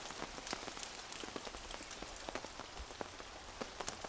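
Small hail falling with rain: a steady patter with many sharp, irregular ticks of tiny ice pellets landing.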